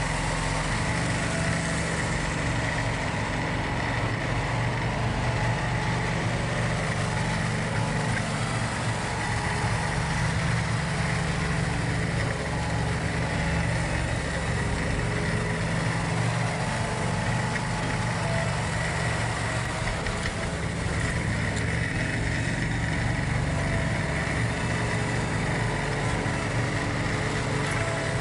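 John Deere 4110 compact tractor's three-cylinder diesel engine running steadily at an even speed, with a thin high whine held over it.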